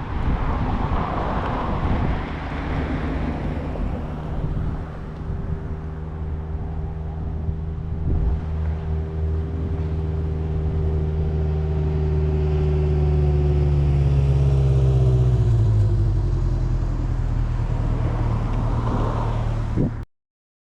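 A car engine running at low speed as the car drives past, growing louder and then dropping in pitch as it passes about three-quarters of the way in; the sound cuts off suddenly at the end.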